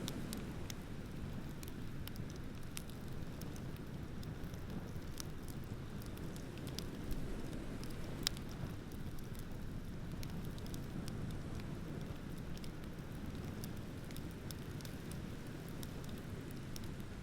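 Wood fire crackling with scattered sharp pops, one louder pop about eight seconds in, over a steady low rush of ocean waves.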